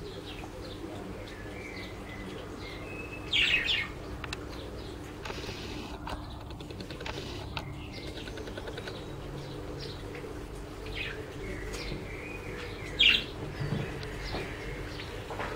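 Birds chirping on and off, with two louder bursts of calls, one a few seconds in and one near the end.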